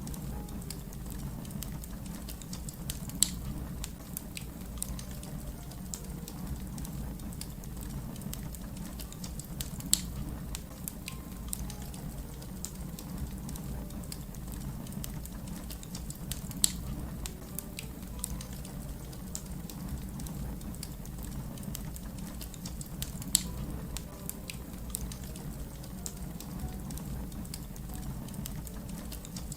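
Wood fire burning with a steady low rumble and constant small crackles, broken by a sharp louder pop about every seven seconds.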